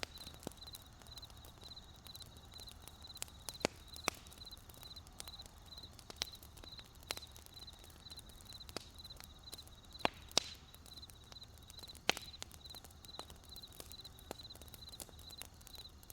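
Wood campfire crackling with irregular sharp pops, the loudest about two-thirds of the way through, over a cricket chirping steadily about three times a second.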